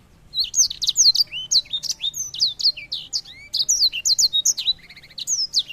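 A songbird singing a fast, continuous song of sweeping whistled notes, most of them falling in pitch, with a short rapid trill near the end. The song starts about a third of a second in.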